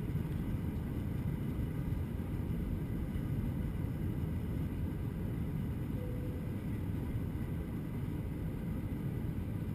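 Steady low rumble of engine and airflow noise inside the cabin of an Airbus A321-200 airliner in flight, even and unchanging throughout.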